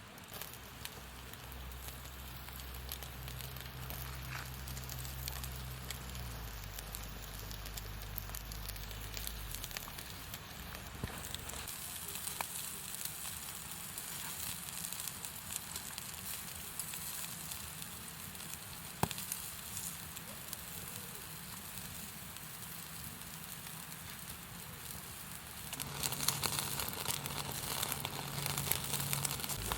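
Wood campfire crackling, with a steady hiss and scattered sharp pops; it gets louder near the end.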